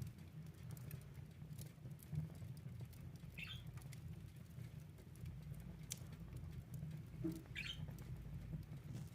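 Wood fire in a fireplace crackling, with scattered sharp pops over a steady low rumble of burning. Twice, once about a third of the way in and again near the end, there is a brief high squeal that drops in pitch, like steam hissing from the wood.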